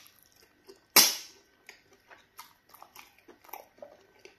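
Close-up eating sounds of a mouthful of pounded yam fufu and okra soup: one loud sharp smack about a second in, then quiet wet chewing clicks.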